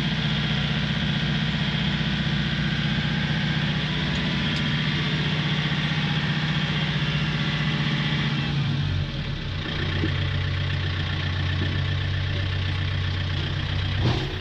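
John Deere tractor engine running steadily, then its revs dropping to a lower, slower idle about nine seconds in.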